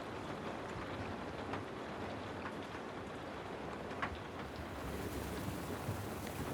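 Steady rain falling, a dense even hiss with a few sharper ticks scattered through it; the hiss grows brighter about five seconds in.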